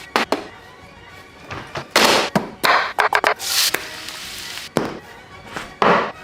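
Steak basting in a pan: about six short, loud bursts of sizzling as hot butter is spooned over the meat, over background music.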